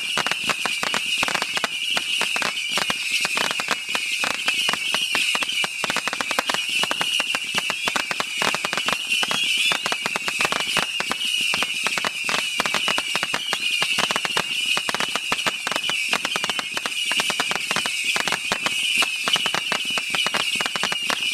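TNT consumer firework crackling continuously, with a dense run of rapid snaps for about twenty seconds. A steady high-pitched tone runs through it.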